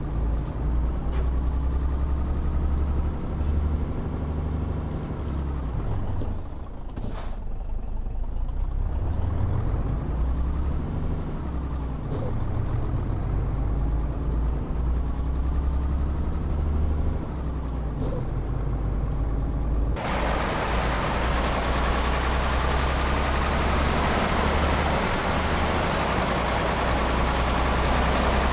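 Tanker truck's diesel engine running under way, its pitch rising and falling with the throttle, with a dip about a quarter of the way in and a few short clicks. About two-thirds through, the sound changes abruptly to a louder rushing noise with a slowly rising whine.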